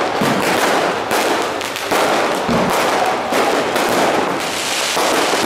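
Aerial fireworks bursting in quick succession: a dense, loud crackle of many sharp cracks, with a few bigger bangs and one deeper thud about halfway through.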